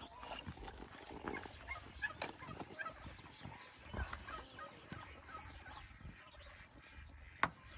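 Faint farmyard animal noises: scattered short calls of poultry and livestock, with one sharp click near the end.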